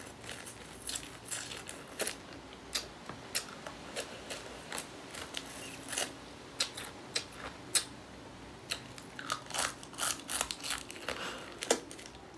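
Close-up mouth sounds of someone biting and chewing an ice candy in a plastic sleeve: sharp, irregular crunches and wet smacks, about one to three a second.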